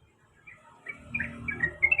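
Yellow-vented bulbul (trucukan) starting into its song: a quick run of short, bright chirps begins about halfway through and builds in loudness.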